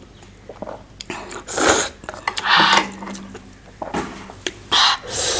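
Close-miked mouth sounds of someone eating: several separate wet, noisy bursts of chewing, with a few light clicks in between.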